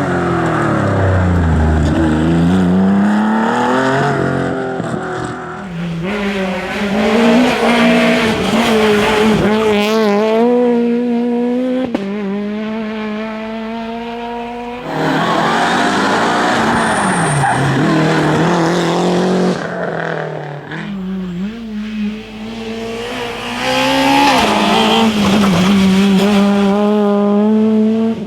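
Rally cars driven hard on a special stage, engines revving up and down in pitch through gear changes and lifts, with tyres squealing. The sound changes abruptly several times as one car gives way to the next.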